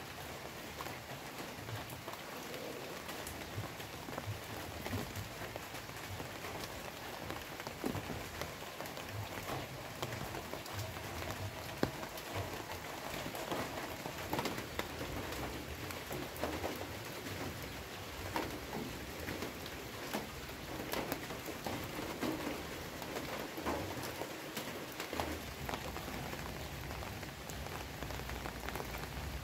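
Steady rain, with many separate drops tapping on leaves close by.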